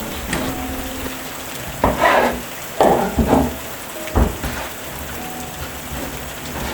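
Steady rain falling, with a few short, sharp knocks about two, three and four seconds in.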